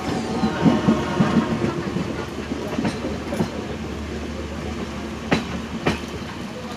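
Indian Railways passenger train running on the track with a steady rumble and clickety-clack of the wheels. Two sharp clacks over rail joints come a little over half a second apart near the end.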